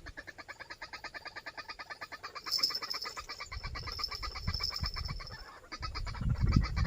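White-breasted waterhen (ruak-ruak) calling, a fast run of clucking notes at about ten a second. A steady high whine joins about two and a half seconds in, with low rumbles later on.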